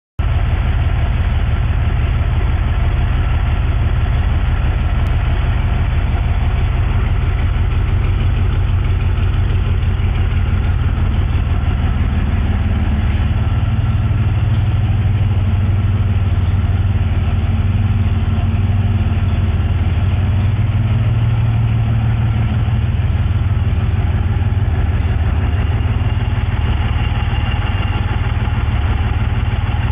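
Chevrolet 262 cubic-inch V6 engine idling steadily on its first run after being installed, a deep even note that swells slightly midway.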